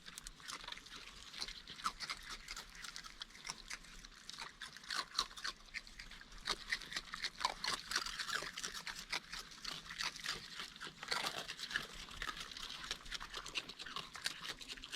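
Raccoons crunching and chewing dry food, a run of irregular small crackles and chomps, with a few short high squeaks mixed in.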